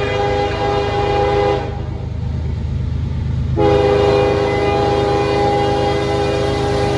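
CSX freight locomotive's air horn sounding a chord of several notes in two blasts: a short one at the start, then a long one beginning about three and a half seconds in. A steady low diesel rumble runs underneath.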